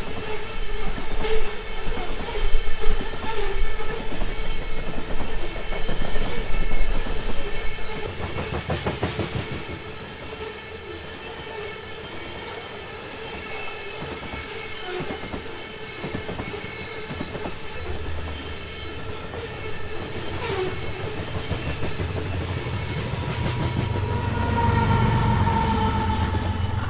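BNSF freight train rolling past, its wheels clicking over the rails, loudest in the first eight seconds, with a steady locomotive horn tone sounding through it and a falling tone near the end.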